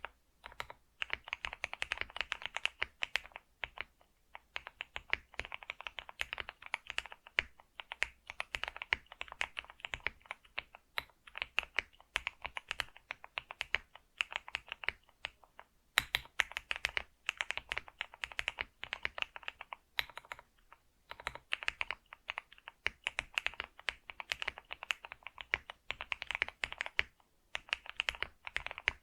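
Computer keyboard being typed on: fast, dense runs of key clicks broken by short pauses every few seconds.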